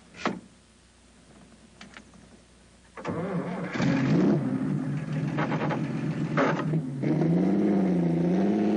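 Mercedes-Benz SSK's 7.1-litre supercharged straight-six engine starting about three seconds in, after a near-quiet stretch, then running and revving up and down.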